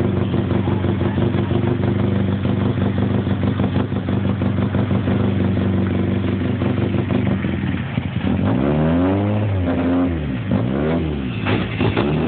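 Renault Clio Group A rally car's engine idling steadily, then revved several times in quick rises and falls over the last few seconds as the car moves off.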